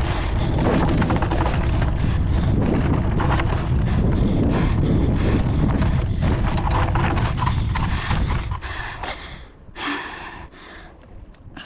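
Mountain bike riding fast down a dirt trail: wind buffeting the microphone and the bike rattling and knocking over bumps. About eight and a half seconds in it slows down and the noise drops away.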